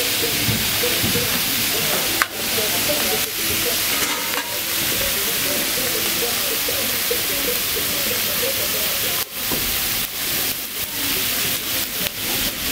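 Food frying in a large pan at a street-food stall, with a steady loud sizzle and background voices.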